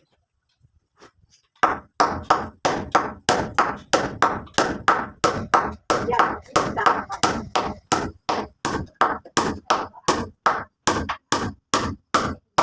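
A hand tool striking something over and over in a steady rhythm, about three blows a second, starting a couple of seconds in.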